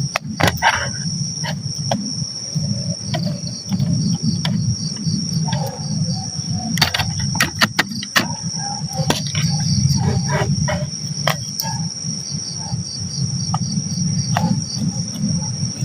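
Night insects, crickets among them, chirring steadily, with a rapid run of chirps under a continuous high drone. A low rumble and scattered sharp clicks and knocks sound throughout.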